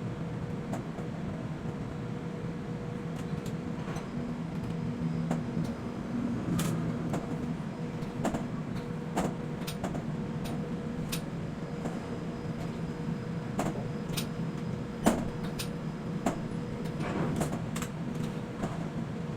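Container-handling machinery running with a steady hum under scattered metallic knocks and clanks, with one louder bang about fifteen seconds in.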